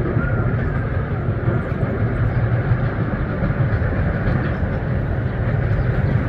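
Cagney miniature steam locomotive moving in reverse, a steady low rumble.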